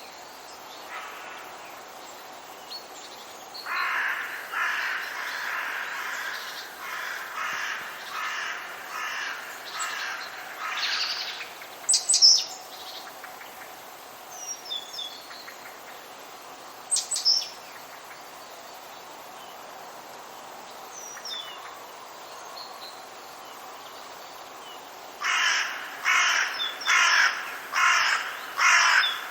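Birds calling in a forest: a run of harsh, repeated calls, about one or two a second, for several seconds, and a second run near the end, with a few short, sharp, high chirps in between, over a faint steady hiss.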